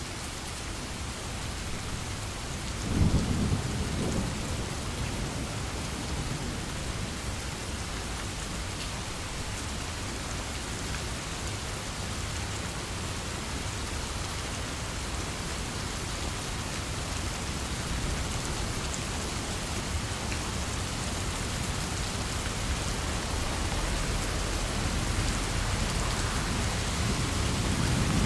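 Steady heavy rain, with a loud low roll of thunder about three seconds in and more low rumbling building near the end.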